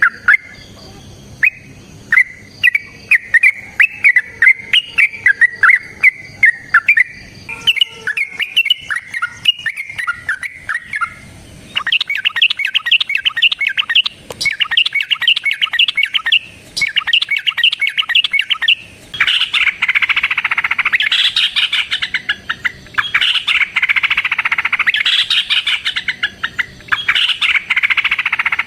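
Yellow-vented bulbuls (trucukan) singing loudly. Separate bubbling, gliding phrases give way about twelve seconds in to long, rapid chattering runs, and in the second half several birds chatter over one another in dense bursts, the excited song of bulbuls sparring.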